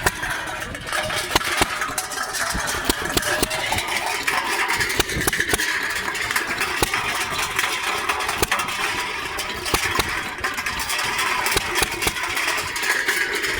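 Stationary gas engine running steadily, with many sharp, irregular clicks and knocks.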